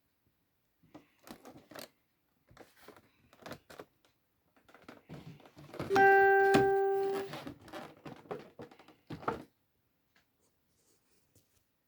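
Scattered light clicks and taps, with one clear pitched tone about six seconds in that fades away over a second or so and is the loudest sound.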